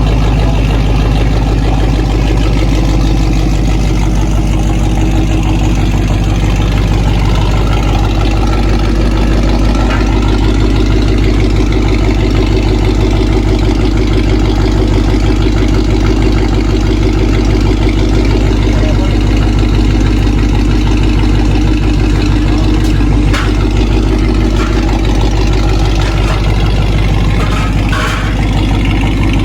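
Ford Mustang Shelby GT500's V8 idling steadily through a straight-piped Akrapovič exhaust, its sound strongest in the low end.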